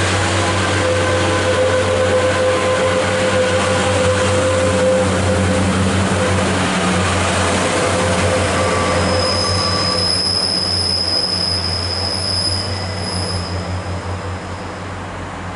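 Class 142 Pacer diesel railbus pulling out, its underfloor diesel engines giving a steady low drone. About nine seconds in a high steady wheel squeal sets in for about five seconds, then the train fades as it moves away.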